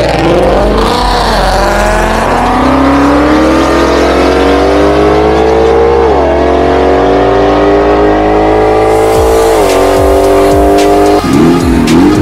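A car engine revving hard, its pitch climbing slowly for about ten seconds with two brief dips, then cutting off near the end. Background music with a steady bass line plays under it.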